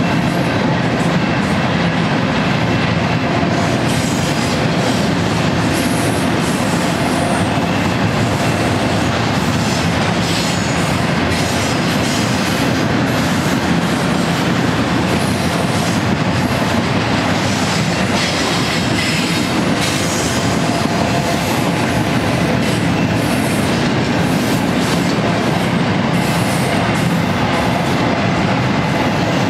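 Double-stack intermodal container train rolling steadily past at close range: a continuous rumble and clatter of steel wheels on rail. High-pitched wheel noise flares up twice, about a third of the way in and again past the middle.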